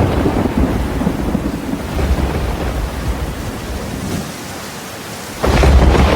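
Rumbling thunder with rain. It eases from about four seconds in, then a loud new rumble breaks in near the end.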